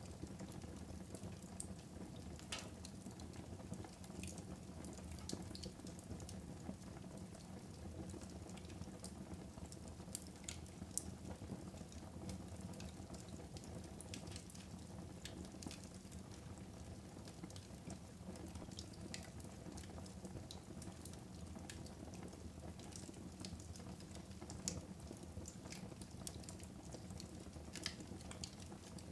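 Wood fire burning in a fireplace: a steady low rustle of flames with scattered sharp crackles and pops, a few louder snaps about ten and eleven seconds in.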